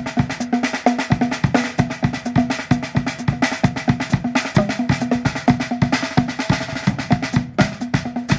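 Acoustic drum kit with Meinl cymbals played in a dense, fast groove: rapid kick and snare hits under a continuous cymbal wash, with no let-up.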